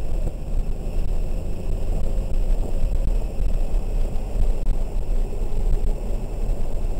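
Interior noise of a 2003 BMW 330i ZHP driven on a wet track: a steady low rumble of its inline-six engine and tyres, heard inside the cabin.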